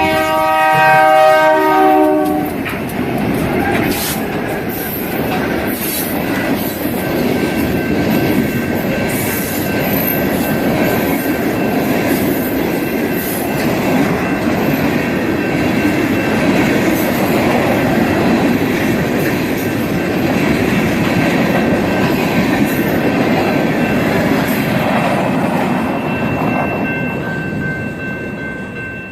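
A train horn sounds a chord for about two seconds, then a train rumbles steadily past with a few faint high steady squealing tones over it. The rumble eases slightly near the end.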